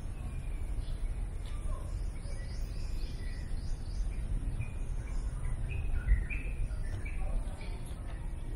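Small birds chirping in short, scattered calls, more of them in the second half, over a steady low rumble.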